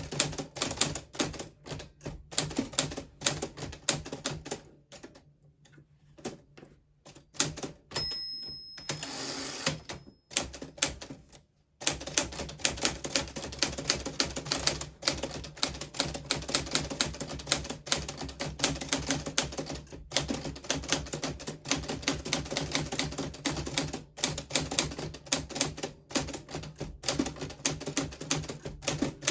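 A 1940s Smith Corona Silent manual typewriter being typed on in quick runs of keystrokes. The typing thins out about five seconds in. A short ringing tone comes about eight seconds in, and after a brief pause the steady typing starts again around twelve seconds.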